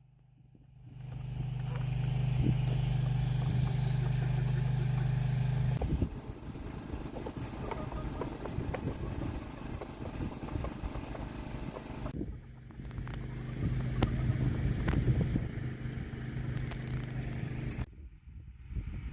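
A motor or engine running with a steady low hum that swells up about a second in, with stretches of clattering and knocks between abrupt cuts.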